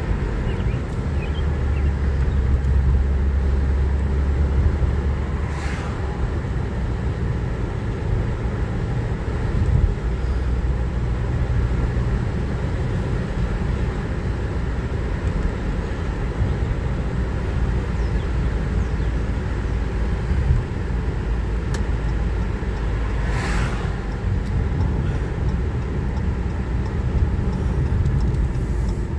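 Car driving along a road, heard from inside: a steady low rumble of engine and tyres, with two brief rushing whooshes, one about six seconds in and one near the end.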